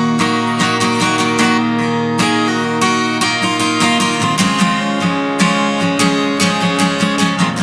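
Acoustic guitar strumming chords in a steady rhythm: an instrumental interlude between sung verses of a hymn.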